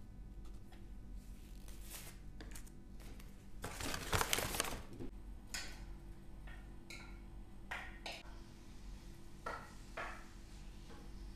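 Kitchen work sounds: utensils and dishes clinking and knocking several times, with one longer, louder noisy stretch about four seconds in, over a steady low hum.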